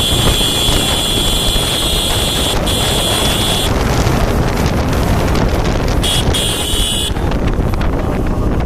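Wind buffeting the microphone on a moving motorcycle, over road and engine noise. A steady high-pitched tone sounds through the first few seconds, stops, and comes back briefly about six seconds in.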